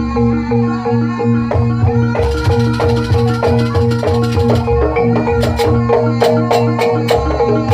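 Jaranan gamelan music: tuned metal percussion strikes a fast repeating pattern over drums, with a hissing cymbal-like wash from about two to four and a half seconds in and sharp metallic strikes near the end.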